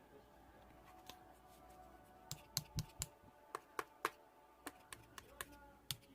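A run of sharp, irregular light clicks and taps starting about two seconds in, over faint room tone.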